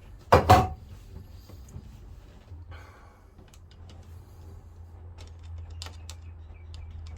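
A loud knock or clunk about half a second in, then scattered light clicks and taps, with a low steady hum underneath.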